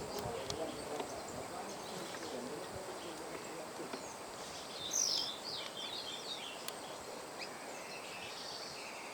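Small birds chirping in short high calls, with a quick cluster of calls about five seconds in, over a steady outdoor background hiss.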